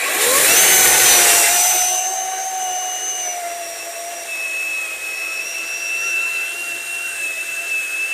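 Worx WG385E 16-inch cordless electric chainsaw spinning up and running through a log: a steady motor-and-chain whine, with the rasp of cutting heaviest in the first two seconds.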